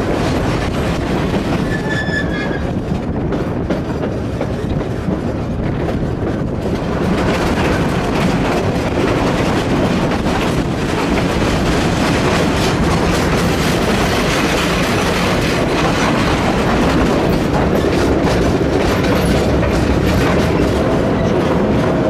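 Cumbres & Toltec narrow-gauge train's passenger car rolling along the track, a steady rumble with the clickety-clack of wheels over rail joints, heard from on board. It gets louder about seven seconds in.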